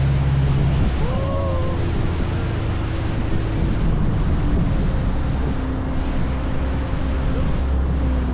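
Wind rumbling on the microphone over the steady drone of a motorboat engine, with the sea around it.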